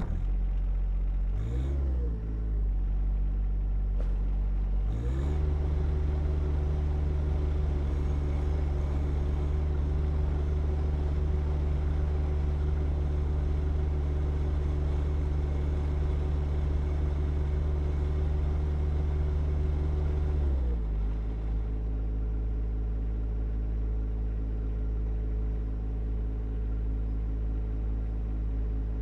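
Compact tractor's diesel engine running: a short rev about two seconds in, then held at a higher steady speed for about fifteen seconds before dropping back to a lower, steady idle.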